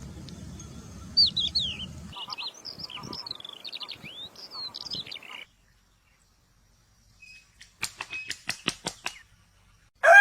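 A songbird singing a quick run of varied whistled notes that cuts off abruptly, followed by silence. Near the end comes a quick series of about seven sharp clicks.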